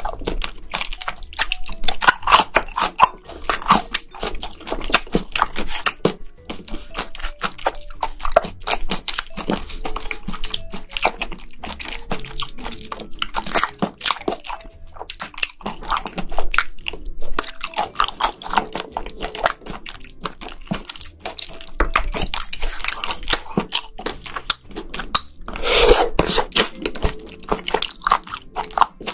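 Close-miked mouth sounds of chewing chopped raw octopus (nakji tangtangi): wet chewing and biting with many irregular clicks, and a louder bite near the end.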